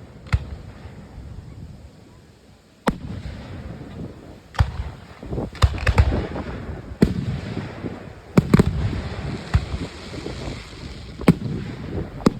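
Aerial fireworks shells bursting: about a dozen sharp booms at irregular intervals, some in quick clusters, with a rumbling echo between them.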